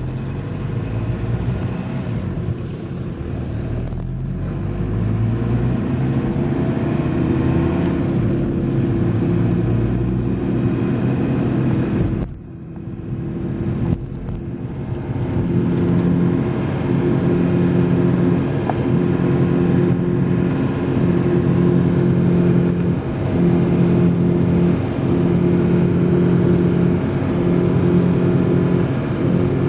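Front-wheel-drive diesel car driving from inside the cabin, the engine rising in pitch as it speeds up, with a short drop in loudness about twelve seconds in, then a steady drone that swells and fades every second or two. Under it runs the rumbling, growling tyre-like noise of a worn front wheel bearing, which is louder when the car turns left.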